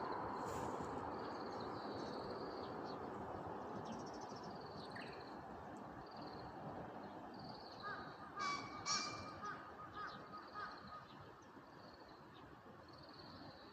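Wild birds calling over a steady background hum: short high calls repeat throughout, and a louder run of quick pitched calls comes about eight to eleven seconds in.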